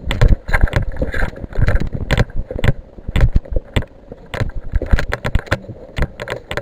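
Rapid, irregular knocks and rattling, a few every second: the footsteps and jostling gear of an airsoft player on the move.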